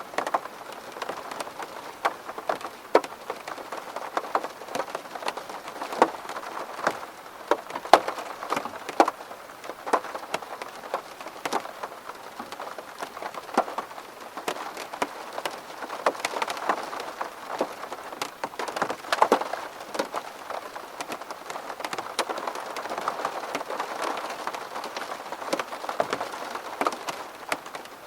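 Rain falling on a window pane: a steady patter with many separate drops tapping sharply on the glass.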